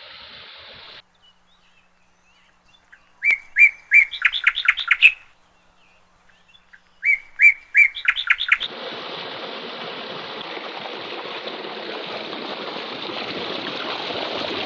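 A bird calls twice, each call a run of quick chirps that speed up and climb in pitch for about two seconds. After the second call a steady rushing noise sets in and holds.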